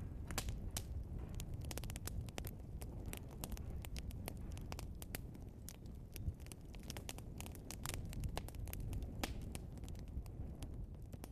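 Burning logs in a fireplace crackling and popping: frequent sharp pops over a low, steady rumble of the flames.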